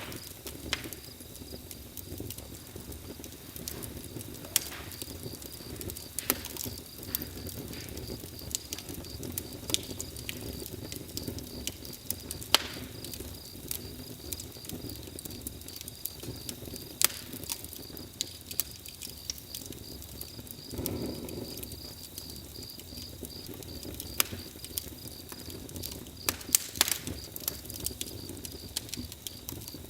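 Campfire crackling: irregular sharp pops and snaps from the burning wood over a low, steady rush of flames.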